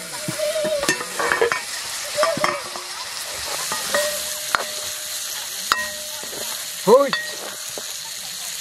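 Meat frying and sizzling in a wok over a wood fire while a metal ladle stirs and scrapes it, with clinks and short metallic squeals of ladle on pan. The loudest squeal comes about seven seconds in.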